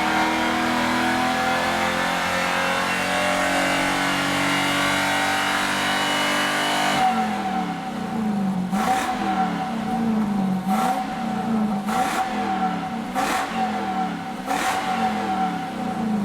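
Toyota Celsior's 3UZ-FE V8 through a one-off straight-piped exhaust with the stock rear silencer. For about seven seconds it holds high revs, the note slowly climbing. Then it drops back and is blipped sharply five or six times, the revs falling between blips.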